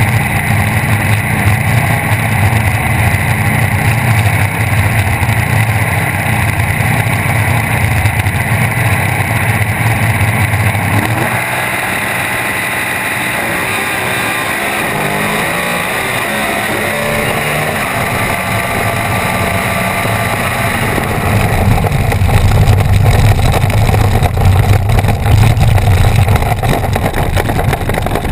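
Naturally aspirated small-block Chevy V8 in a sand drag Jeep running at low revs as the car rolls along. The note turns softer and shifts up and down in pitch through the middle, then grows louder again near the end.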